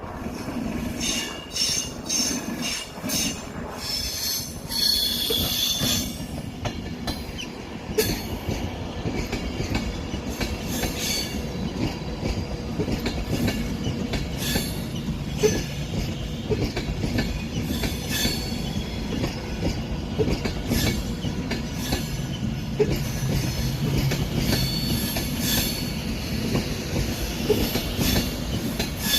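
A train running over the tracks, its wheels squealing in repeated high-pitched bursts. Sharp clicks come from the rail joints and points, over a steady low rumble.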